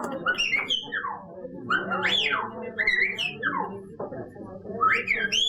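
A bird calling in a rapid series of short whistled and chirping notes that sweep up and down in pitch.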